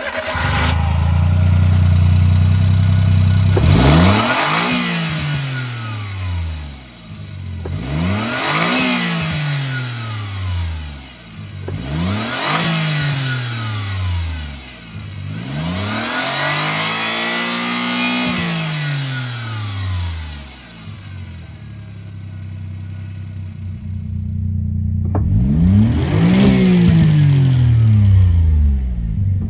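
Suzuki Jimny JA22W's K6A 660 cc three-cylinder turbo engine running at a steady idle, then revved up and let fall back about four times in a row. It settles back to idle for a few seconds, and another rev begins near the end.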